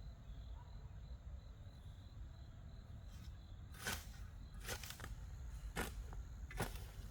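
A low steady rumble, then from about four seconds in a series of sharp knocks roughly once a second.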